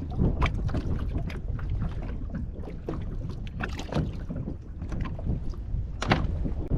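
Wind rumbling on the microphone with many irregular light clicks and knocks, from handling in a kayak; a firmer knock comes about six seconds in.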